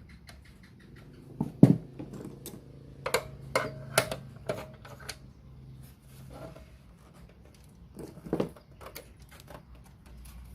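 A series of sharp clicks and knocks from hard objects being handled, loudest about a second and a half in and again near the end, with a faint low hum under the middle part.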